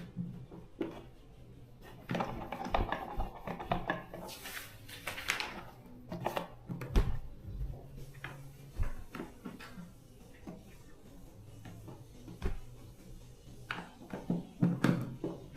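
Hand-work noises: irregular clicks, knocks and scraping, with a faint steady low hum underneath.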